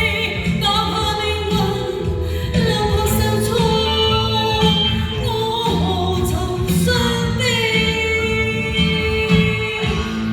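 A woman singing a pop ballad, holding long wavering notes, over instrumental accompaniment with a steady bass line.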